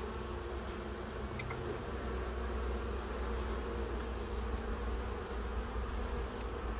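Honeybees buzzing in a steady hum around an open hive.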